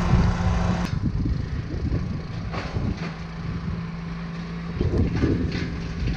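An engine idling steadily, dropping out for about two seconds about a second in, then running again, with a few short knocks and clatters.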